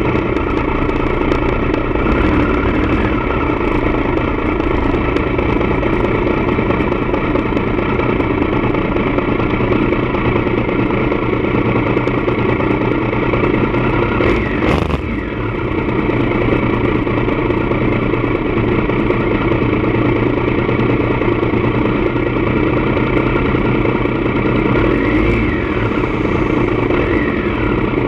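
Triumph Daytona 955i's inline-three engine running steadily through a D&D aftermarket exhaust, with a brief drop in level about halfway through.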